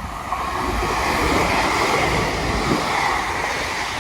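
A Hitachi class 800-family intercity train passing through at speed: a steady rush of wheel and air noise that swells about a third of a second in.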